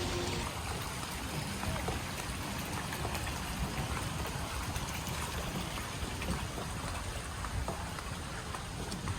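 Steady splashing and trickling of water running into a goldfish pond.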